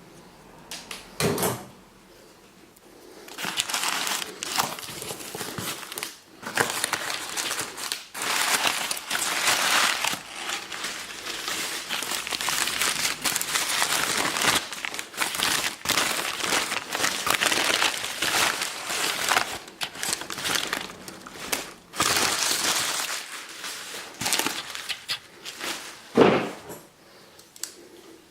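Packing material being handled and unwrapped, crinkling and rustling almost without pause, with a couple of short knocks, one soon after the start and one near the end.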